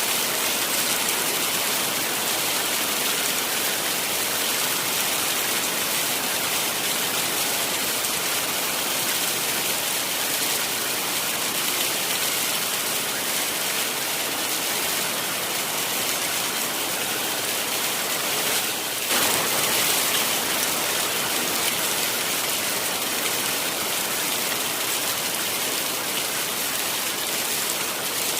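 Heavy rain falling steadily, an even dense hiss, with a brief dip and slight swell about two-thirds of the way through.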